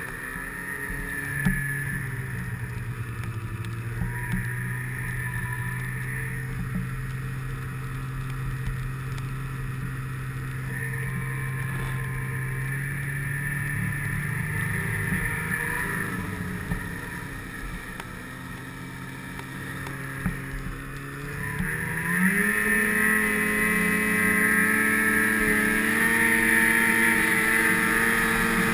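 Snowmobile engine running at a steady speed, then revving up and getting louder about three-quarters of the way through.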